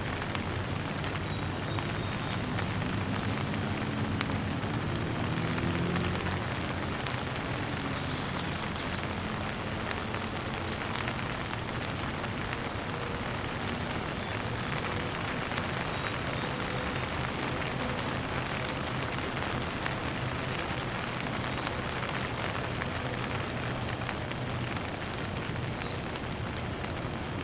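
Steady rain falling on surfaces.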